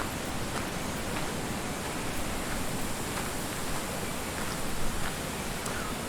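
Steady rushing of strong wind through the woodland trees, with a few faint ticks.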